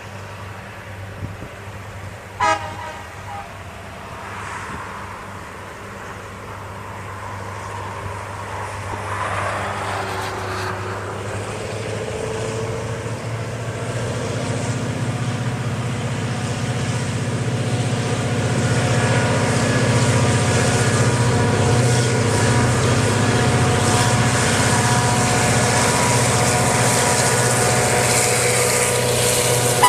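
Train giving a short horn toot a couple of seconds in, then its running noise growing steadily louder as it comes closer, with a steady low hum and several held tones.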